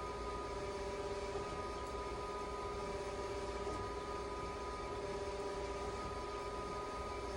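A steady machine hum: several constant whining tones over an even hiss and low rumble, unchanging throughout.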